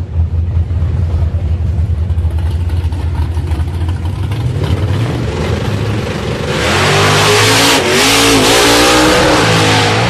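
A car engine running with a steady low drone, then revving up hard as the car accelerates about six seconds in, its pitch wavering up and down under loud wind and road rush.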